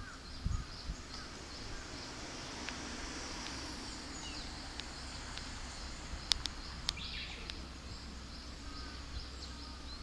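Small birds chirping and calling over a steady low background rumble, with a few sharp clicks about six to seven seconds in.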